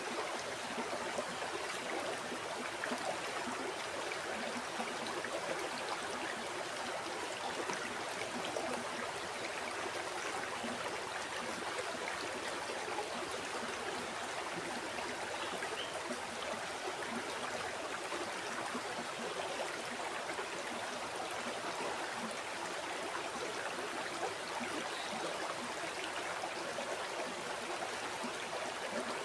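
A river flowing steadily over stones, an even rushing and burbling of water with no breaks.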